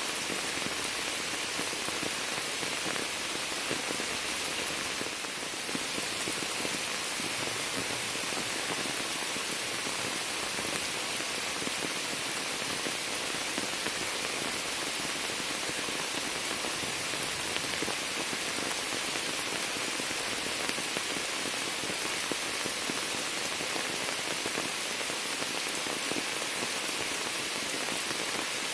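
Rain falling steadily onto standing floodwater and the leaves of a shrub, an even hiss of countless drops striking the water's surface.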